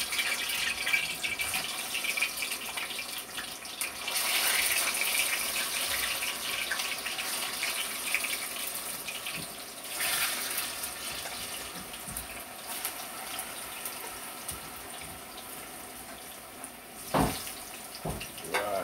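Ripe plantain slices frying in a pan of hot oil, with a steady sizzle that slowly dies down. A couple of sharp knocks from a utensil against the pan near the end.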